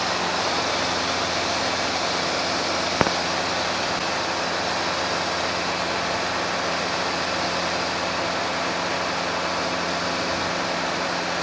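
Robinson R22 helicopter in steady cruise, heard from inside the cabin: an even drone of engine and rotor under a hiss. A single short click comes about three seconds in.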